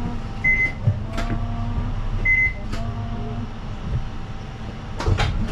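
Electronic beeper inside a bus sounding a repeating pattern about every two seconds: a short high beep with clicks over held lower tones, over the low rumble of the bus running.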